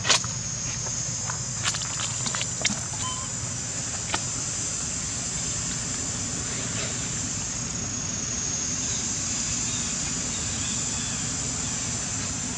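Steady outdoor background with a continuous high-pitched drone and a low rumble. A handful of sharp clicks or knocks come in the first few seconds, the loudest right at the start.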